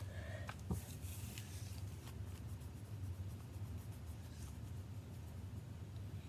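Colouring strokes on paper: a pen or pencil tip rubbing back and forth, with a small knock about a second in, over a steady low hum.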